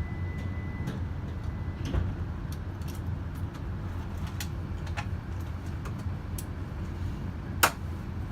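Steady low rumble of a Tohoku Shinkansen train running, heard inside the passenger car, with scattered light clicks and one sharper click near the end.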